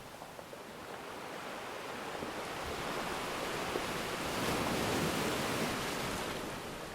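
Ocean waves breaking on the shore: the surf swells, peaks about five seconds in, then washes back down.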